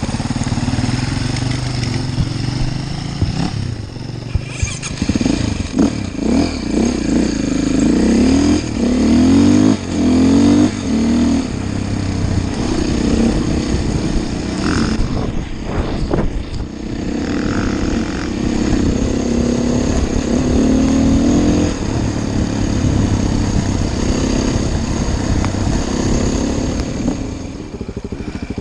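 Enduro dirt bike engine revving up and down again and again as the bike is ridden off-road, with short knocks now and then.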